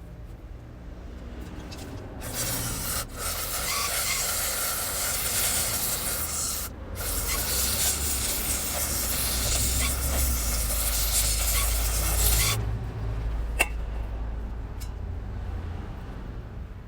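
Pressurised spray hissing in two long bursts, each about five seconds, with a short break between them, followed a moment later by a single sharp click.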